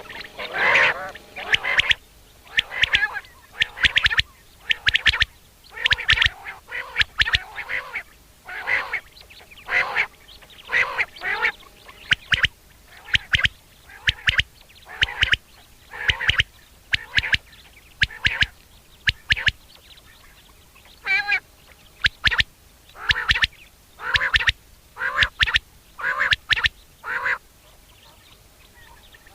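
Common quail calling: short, sharp calls repeated about once a second, with a brief pause about 20 seconds in, trailing off near the end.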